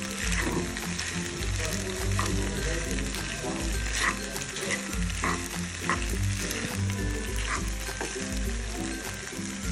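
Pasta sizzling in a hot frying pan as it is stirred with a metal spoon, with a few scrapes of the spoon against the pan, over background music.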